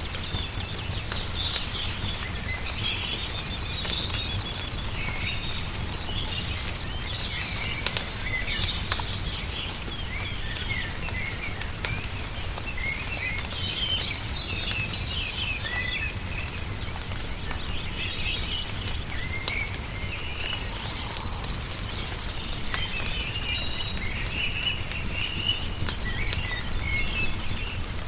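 Small birds chirping and twittering continually over a crackling fire, with frequent sharp pops and snaps and a steady low rumble underneath.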